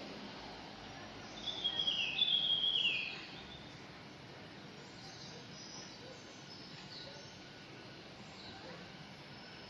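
Birds calling: a run of loud, falling high notes about one and a half to three seconds in, then scattered faint high chirps over a steady outdoor hiss.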